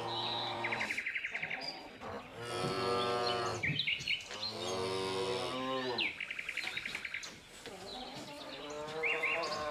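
Cattle mooing: two long calls in the middle and another starting near the end, with small birds chirping and trilling in between.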